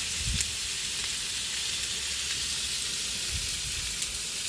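Meat sizzling steadily as it cooks on a hot grill or pan, with a couple of faint clicks about half a second in and again near the end.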